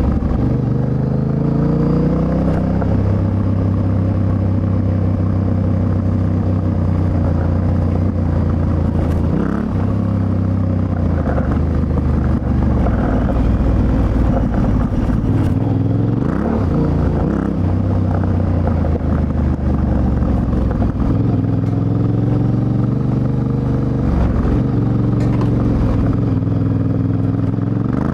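Yamaha Ténéré 700's 689 cc CP2 parallel-twin engine, with Akrapovic exhaust, running while riding. It holds steady revs for long stretches and shifts in pitch with throttle and gear changes, rising and falling briefly around the middle.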